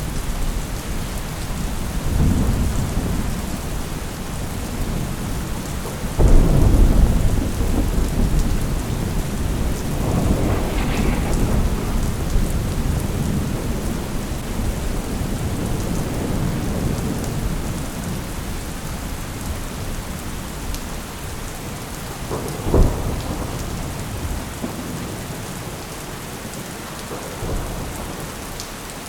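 Thunderstorm: steady rain with rolling thunder. A loud thunderclap breaks in about six seconds in and rumbles on, and a short, sharp crack of thunder comes later on.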